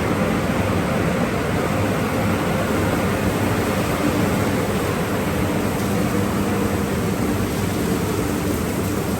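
Automatic car wash tunnel equipment running, a steady rushing noise with a faint low hum.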